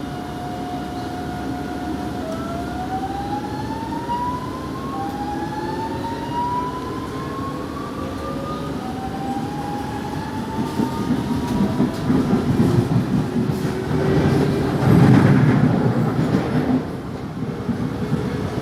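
Alstom series 8900 electric multiple unit, heard from inside the car, picking up speed: its traction drive's whine rises in several overlapping steps. In the second half it gives way to a louder rumble of wheels on track with clickety-clack.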